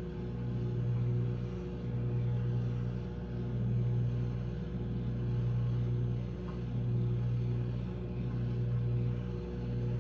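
Microwave oven running while heating a frozen pizza: a steady electrical hum that swells and dips regularly about every second and a half.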